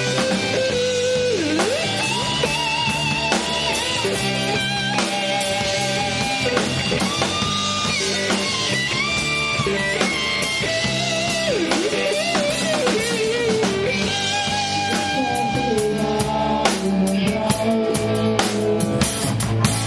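Rock band playing live with no vocals: a lead guitar melody of held, bent and wavering notes over drums and bass.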